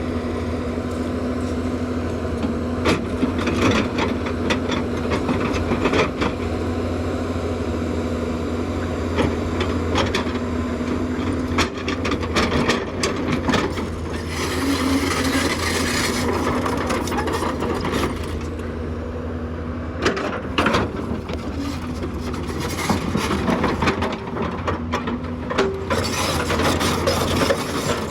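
Hyundai 210 excavator's diesel engine running steadily, with frequent clanks and knocks from the machine at work.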